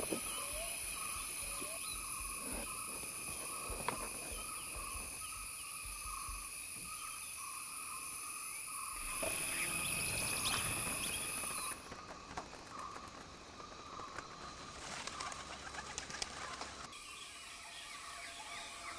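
Forest ambience: steady high buzzing of insects with repeated bird calls. About halfway through comes a louder rush of wingbeats as a flock of birds takes off.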